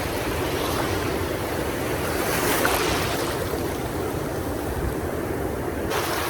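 Pacific Ocean surf washing in steadily, swelling briefly about halfway through, with wind rumbling on the microphone.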